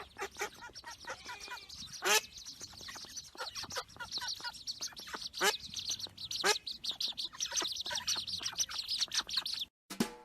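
A group of birds calling in rapid, overlapping short calls, with a few louder calls standing out about two, five and a half and six and a half seconds in; the calling cuts off suddenly near the end.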